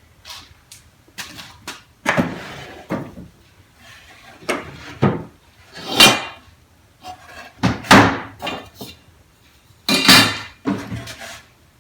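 Drawers of a cheap chest of drawers (part solid wood, part fiberboard) being pulled out, handled and set down: a series of irregular wooden knocks and short sliding scrapes, about half a dozen loud ones.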